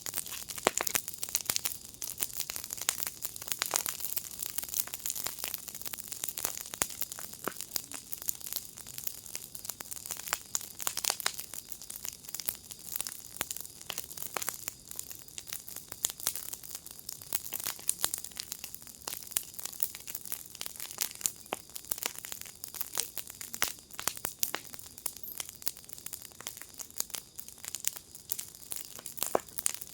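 Fire in a garden fire pit crackling: dense, irregular pops and snaps over a steady high hiss.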